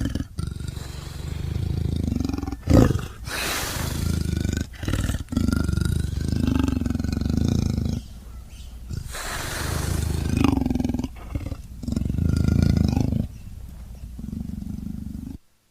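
Indian leopard growling: a long run of low growls with sharper, louder snarls about three seconds in and again around ten seconds in.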